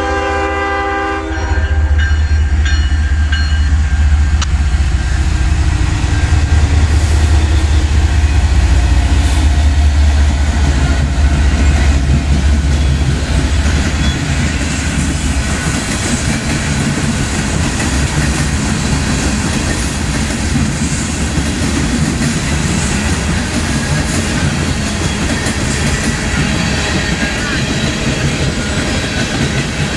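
A freight locomotive's air horn sounds a chord that cuts off about a second in. The Norfolk Southern GE ES40DC diesel locomotive's engine then rumbles past. It is followed by freight cars rolling by with steady wheel and rail noise and clickety-clack.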